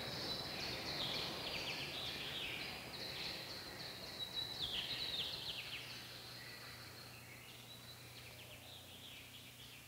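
Birds chirping and trilling over a hiss of background noise, fading away over the last few seconds, with a faint steady hum coming in behind.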